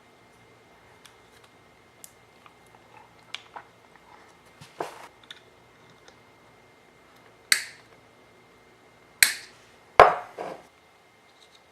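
Light clicks and taps of small parts and tools being handled, then three loud sharp clacks, each ringing briefly, in the second half.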